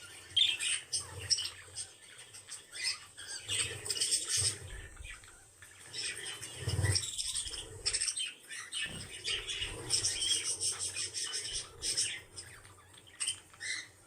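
Pet birds chattering in many short, high-pitched chirps and calls, coming in irregular bursts.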